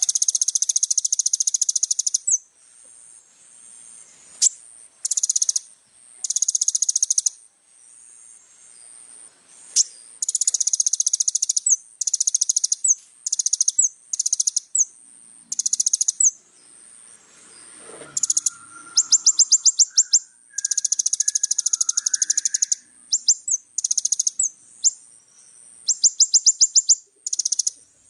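A 'kolibri ninja' sunbird singing: repeated high-pitched phrases of rapid chattering notes and fast trills, each about half a second to two seconds long, with short pauses between.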